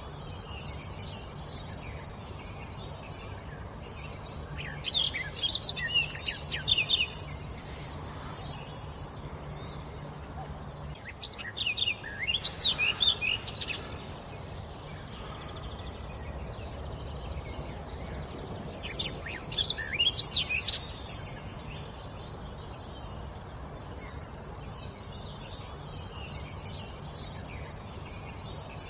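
A songbird singing three short phrases of quick, sharp chirping notes, each about two seconds long and several seconds apart, over a faint steady low hum.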